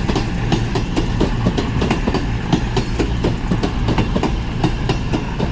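CrossCountry Class 221 Super Voyager diesel-electric unit moving through the station, its wheels clacking over rail joints and points several times a second over a steady low engine hum.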